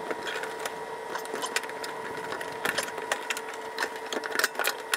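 Rapid, irregular small clicks and taps of hand tools and parts being worked on a car's fuel-tank fittings, busier in the second half, over a faint steady whine.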